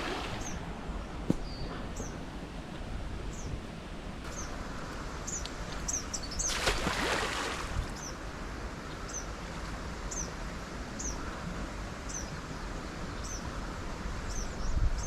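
Outdoor ambience with a small bird repeating a short, high, falling chirp over and over, and a brief rushing swell of noise about seven seconds in.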